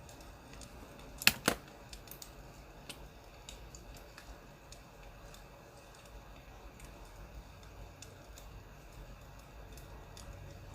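Sparse faint crackles and pops of a burning wood fire over a low steady hum, with two sharp clicks in quick succession about a second in.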